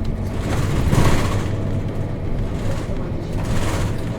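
Nissan Diesel KC-RM211GSN bus's FE6 six-cylinder diesel engine running under way, heard from inside the bus as a steady low hum. A louder rush of noise swells about a second in and again near the end.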